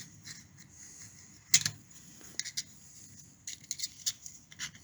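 Light clicks and knocks of small metal parts and tools being handled during engine parts cleaning, with one sharper knock about a second and a half in and clusters of smaller clicks later.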